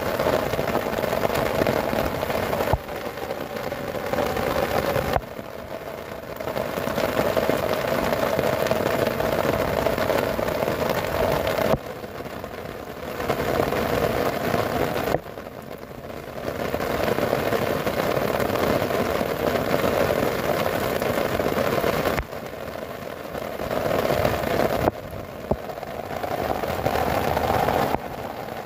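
Heavy rain drumming on a tent's fabric, heard from inside the tent, as a steady dense hiss that drops sharply and comes back several times.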